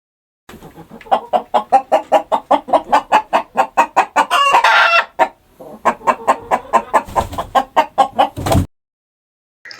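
Hen clucking in a fast run of short clucks, about five a second, with a louder, higher cackle about four and a half seconds in and a brief break just after it. The clucking then stops abruptly.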